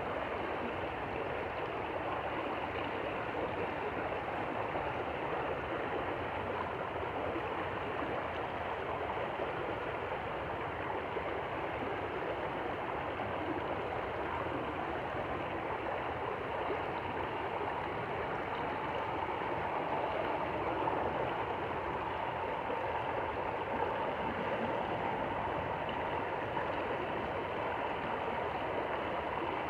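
Stream water flowing steadily, an even rushing and gurgling without breaks.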